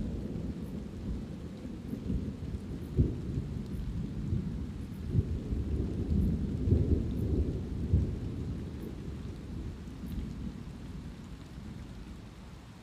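Thunder rumbling low and long, with a few sharper claps through the middle, dying away near the end, over light steady rain.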